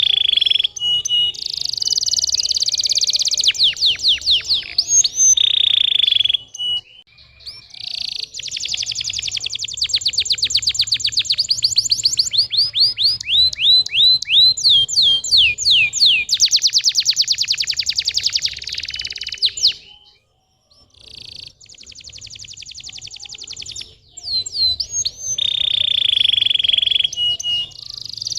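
Domestic canary singing a long, loud rolling song of fast trills and rows of quick repeated chirps, breaking off briefly about two-thirds of the way through before resuming.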